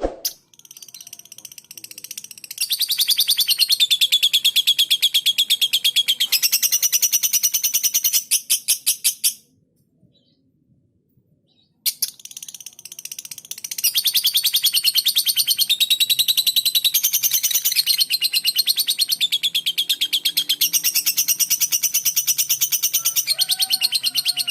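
Lovebird singing long runs of rapid, high-pitched chatter: one burst lasting about nine seconds, a short pause, then a second burst of about twelve seconds.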